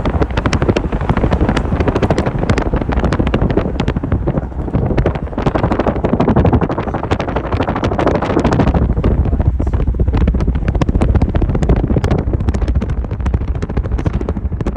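Wind buffeting and crackling hard on the microphone over the low rumble of a moving car, windows down.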